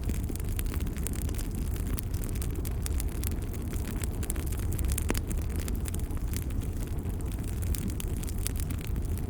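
Wood fire crackling in a fireplace: many small sharp pops and snaps at irregular moments over a steady low rumble of the flames.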